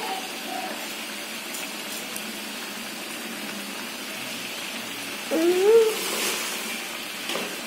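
Ground spice paste with pandan leaves frying in an aluminium wok, a steady sizzle. About five seconds in, a short call slides up and then down in pitch.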